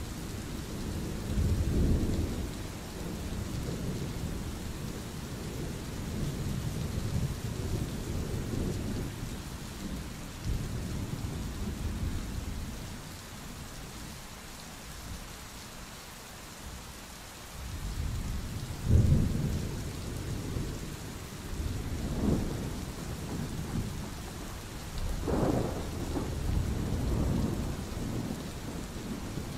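Thunderstorm: steady rain with rolling thunder that swells and fades several times. A quieter lull comes about halfway through, then fresh rumbles.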